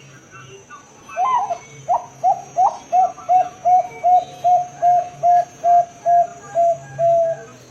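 Zebra dove (perkutut) singing: a few rising opening notes, then a fast, even run of about fifteen short coos, roughly three a second.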